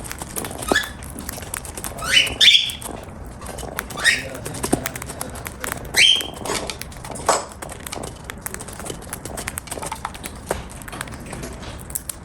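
Cockatiel eating, its beak making a dense run of small crunching clicks on food, with about six short rising chirps in between.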